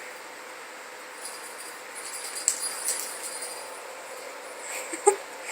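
Small jingle bell in a cat toy jingling as the toy is batted about, with a sharp knock about two and a half seconds in and a louder one near the end.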